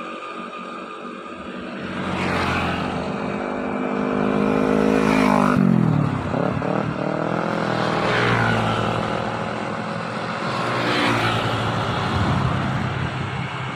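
Road traffic: vehicles passing one after another, each swelling and fading, over a steady engine hum, with one engine's note dropping sharply about six seconds in.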